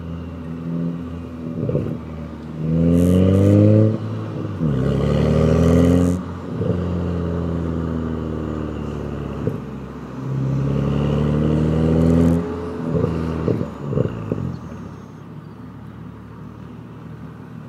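BMW E92 335i's N55 turbocharged straight-six, heard from outside through an aftermarket quad exhaust with a downpipe. It revs up several times with drops in between and a few quick blips about thirteen seconds in, then settles to a quieter, steady idle near the end.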